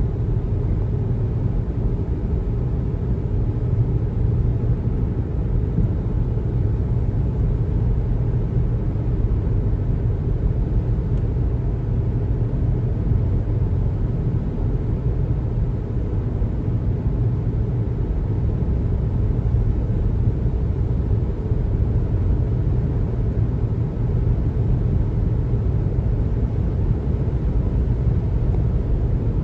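Steady, low road noise of a car driving: tyre and engine rumble with no sudden events.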